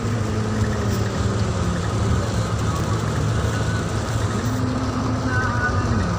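A car driving: steady engine and road noise with a constant low hum and a faint tone that slowly wavers in pitch.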